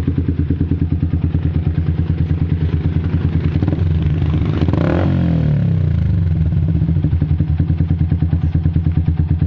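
Yamaha Vixion's single-cylinder 150 cc engine running through an aftermarket YRC Racing full exhaust, idling with a steady, lumpy pulse. About four seconds in the throttle is blipped once and the note rises, then falls back to idle.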